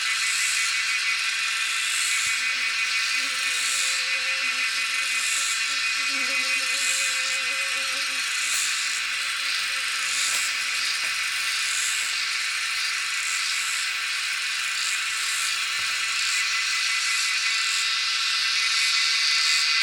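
Chorus of insects: a dense, steady buzzing with a higher chirp pulsing about every second and a half.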